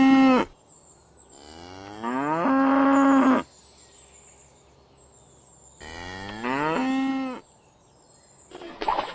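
Cow mooing: the end of one moo, then two long moos a few seconds apart, each rising in pitch and then holding a steady low note. Near the end a different, clattering animal sound begins.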